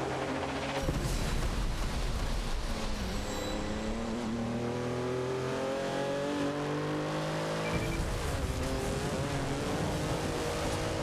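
Car engine running, its pitch climbing steadily as it revs or accelerates through the middle. The sound changes abruptly about a second in and again near eight seconds.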